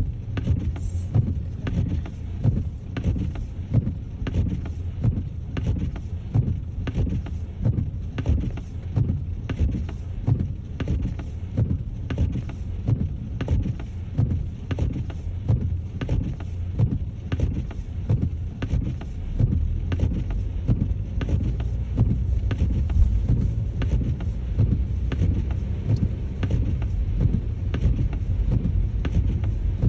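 Car driving slowly on a snow-covered road, heard from inside: a steady low rumble of engine and tyres, with many short irregular knocks throughout.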